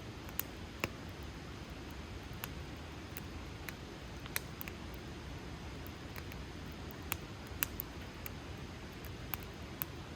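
Wood campfire burning in a fire stand: a steady low rumble of flames with irregular sharp crackles and pops from the burning wood.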